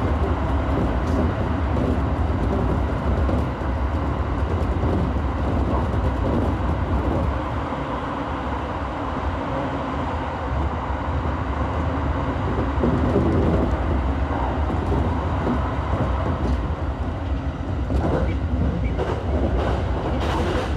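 Electric commuter train running through a tunnel, heard from inside the front car: a steady rumble of wheels on rail and traction motors. There are a few sharp knocks near the end.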